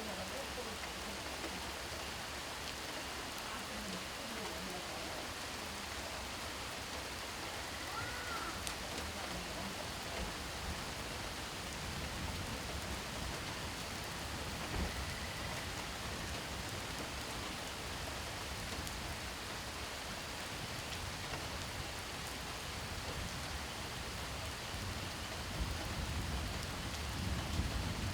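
Steady rain falling, an even hiss of drops on surfaces. A low rumble comes in under it about halfway through and swells near the end.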